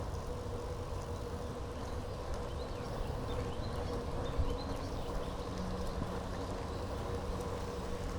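Steady rolling rumble and wind noise from a bicycle riding along a paved path, with a constant faint whine and a few faint high chirps over it.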